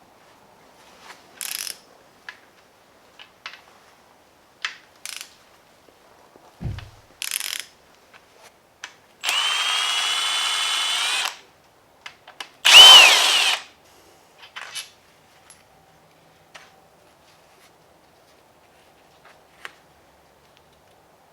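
A cordless drill-type power tool runs twice: a steady run of about two seconds near the middle, then a louder, shorter burst whose pitch rises and falls. Scattered clicks and clinks of metal tools and parts come between.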